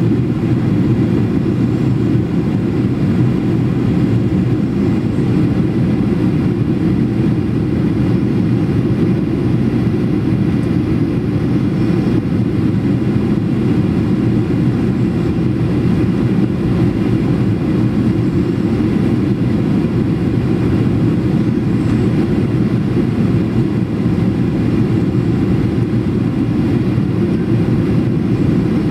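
Boeing 737 cabin noise on approach: the steady, even drone of engines and rushing air heard from inside the passenger cabin, with no change over the whole stretch.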